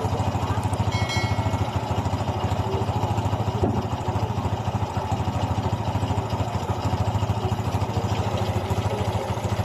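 Honda XRM 125 single-cylinder four-stroke motorcycle engine idling steadily and evenly after a rebore and new piston.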